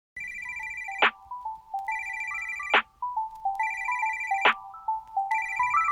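Electronic phone ringtone: a trilling ring that repeats about every second and a half, each burst ending in a quick swoosh, over a bouncy melody of short notes.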